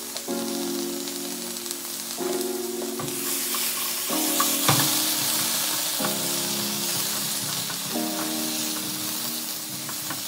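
Sliced potatoes sizzling in hot oil in a frying pan, louder from about three seconds in, as a silicone utensil stirs and turns them, with a sharp tap against the pan near the middle. Background music with held chords plays throughout.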